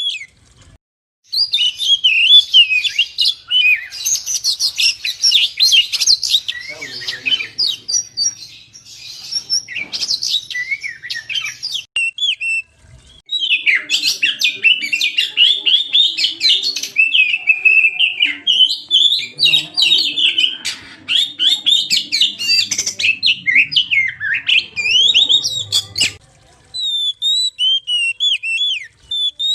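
Oriental magpie-robin (kacer) singing an energetic, varied song of rapid whistles, trills and chattering notes, with short pauses about a second in and again near the middle.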